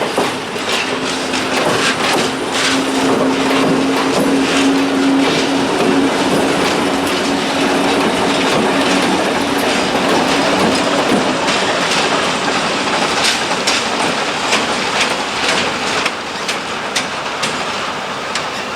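A TEM2 diesel shunter pushes a train of loaded hopper wagons rolling past, with wheels clicking irregularly over rail joints. A steady low hum runs through the first half and fades out about eleven seconds in.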